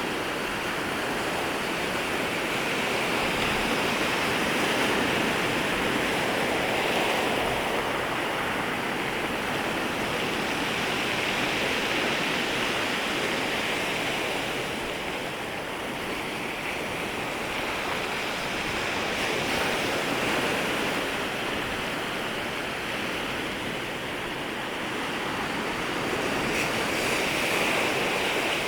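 Waves breaking and washing up at the shoreline: a continuous rushing surf that swells and eases every several seconds.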